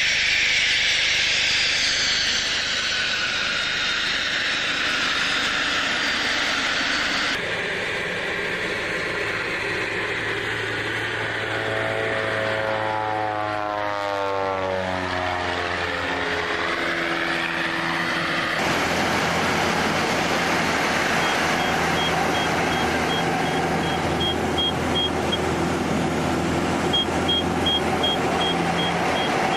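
Light aircraft engines running at an airfield, in several edited segments. Midway one engine's pitch sweeps down and back up as it passes, and a high beep repeats steadily near the end.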